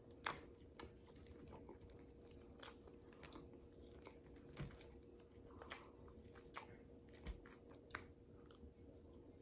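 Faint close-up mouth sounds of eating: chewing with scattered small clicks and smacks, about one or two a second, over a faint steady hum.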